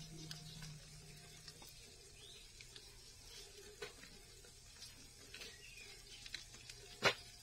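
Faint sizzling of bread and egg frying in an oiled pan over low heat, with scattered light clicks and one sharp knock about seven seconds in.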